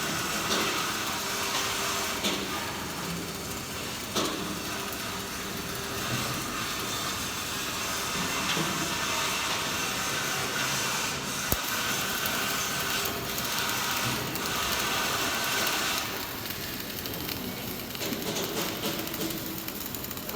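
Flux-cored arc welding on stainless steel: the arc gives a steady hiss and crackle that eases off near the end.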